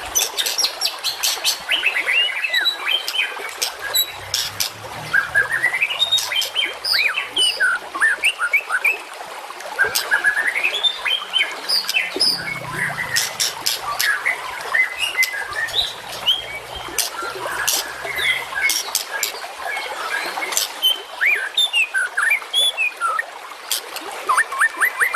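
Songbird masteran, a compiled recording of wild bird song used to tutor caged songbirds: many overlapping quick chirps, rising and falling whistled notes and sharp clicking notes, with no let-up.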